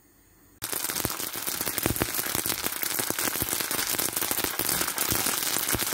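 Boiled, cornstarch-dusted spiral pasta deep-frying in hot oil in a wok: a dense sizzle thick with crackles and pops. It starts abruptly about half a second in, after near silence.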